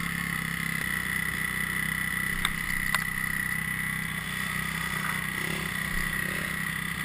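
Dirt bike engine running at a steady speed, with two short clicks about halfway through.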